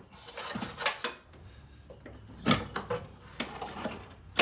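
Metal clinks, knocks and scraping of parts being worked by hand as the brake booster is pulled free, with a sharp clack at the very end.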